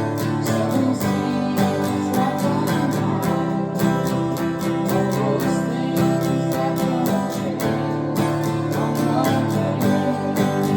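Acoustic guitar strummed in a steady, even rhythm, playing a folk-country tune.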